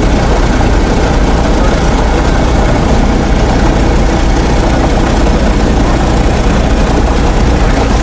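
DC-3 radial piston engine idling steadily after start, heard from inside the cockpit.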